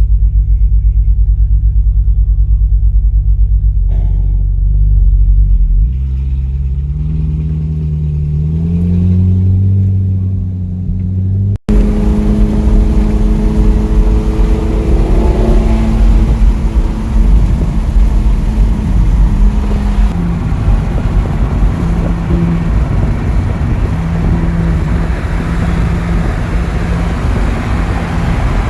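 Performance car engine with a deep, pulsing idle rumble, then revving with its pitch climbing. After an abrupt cut about twelve seconds in, a car is driving at speed, its engine note steady under loud road and wind noise.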